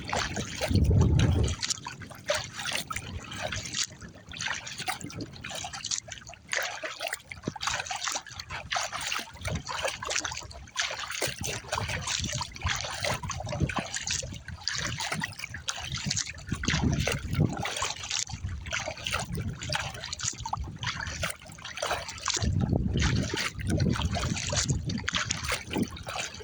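Water splashing and trickling off a kayak paddle's blades stroke after stroke, with small wind-driven chop lapping at the plastic hull of a Pelican Argo 100XR. Gusts of wind rumble on the microphone near the start and again near the end.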